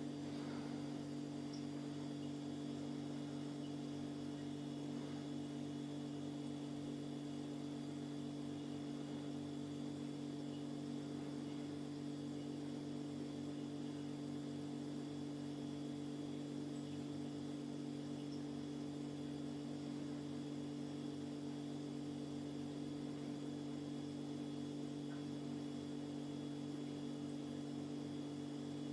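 Steady electrical hum made of several low fixed tones, unchanging in level.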